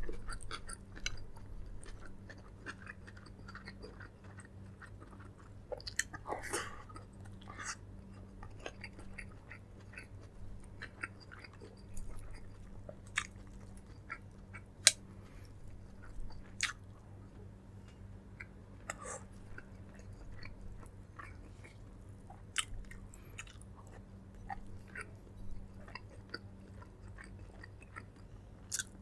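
A person chewing and biting food, close to the microphone: irregular soft wet clicks and smacks of the mouth, with a few sharper clicks now and then, over a steady low hum.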